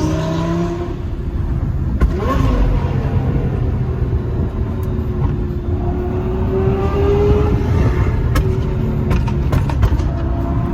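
Lamborghini Gallardo Superleggera's V10 with an aftermarket exhaust, heard from inside the cabin while cruising at light, steady throttle over a dense low road rumble. The engine note drifts slowly up and then settles, and a few sharp ticks come near the end.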